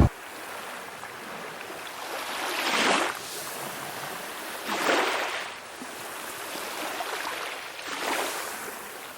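Small waves breaking on a beach: three gentle surges of surf, about two to three seconds apart, over a steady hiss of water.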